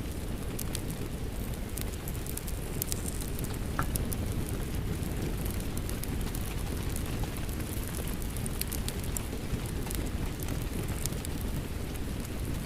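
Steady rain mixed with a crackling wood fire: an even low rumble under scattered sharp pops and crackles.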